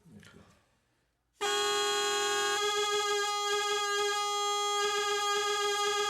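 Tsambouna, a Greek goatskin bagpipe, sounding a loud, reedy, sustained tone that starts about a second and a half in. A low note holds steady while the upper notes shift, and the sound then cuts off sharply near the end.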